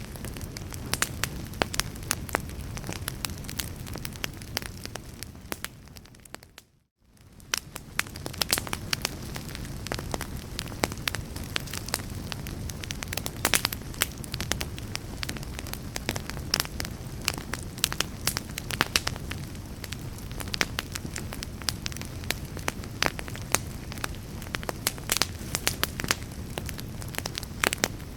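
Fireplace fire crackling, with frequent sharp pops over a steady low rush of flames. About seven seconds in, the sound briefly fades almost to nothing and then returns.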